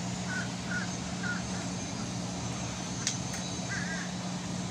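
A bird calling: three short, evenly spaced calls, then a short run of calls a couple of seconds later, over a steady low hum and one sharp click about three seconds in.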